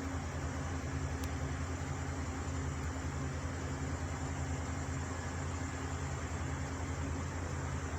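Truck engine running steadily at a distance, a low, even drone with no change in pitch.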